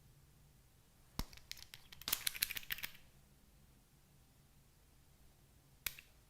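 Handling noises: a sharp knock about a second in, then about two seconds of crackly rustling and clicking, and a single click near the end.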